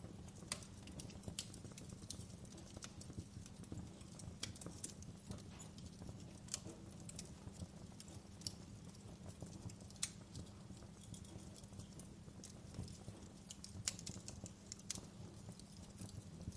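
Wood fire burning in a fireplace: irregular crackling and popping over a low, steady rumble of the flames.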